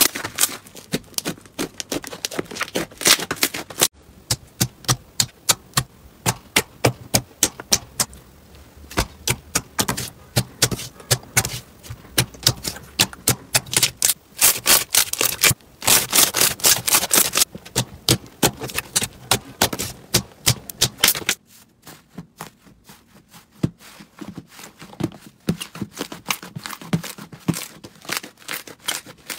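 Slime being squeezed and poked by hand, making rapid sharp clicks and crackling pops, in a few short segments that change abruptly.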